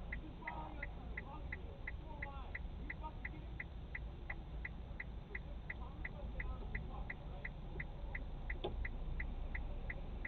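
A car's indicator flasher ticking steadily inside the cabin, about three ticks a second, over a low engine-idle hum. Faint voices can be heard in the background.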